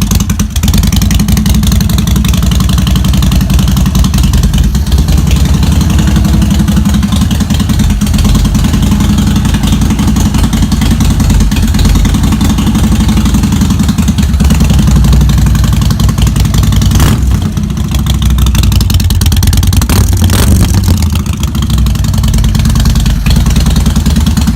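Harley-Davidson Sportster Forty-Eight's air-cooled 1200 cc V-twin through a custom exhaust, idling loudly and steadily while still warming up from a cold start.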